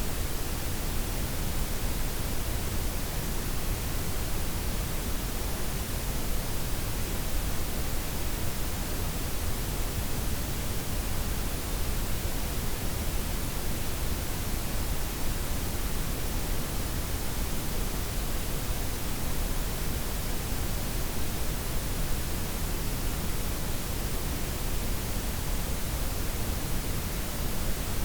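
Steady synthetic noise blend of softened white, pink and brown noise, an even hiss with a deep rumble underneath and the highs gently rolled off, unchanging throughout.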